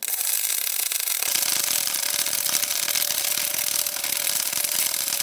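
Electric welding arc on aluminum plate: a steady, dense crackling hiss that starts abruptly and runs without a break.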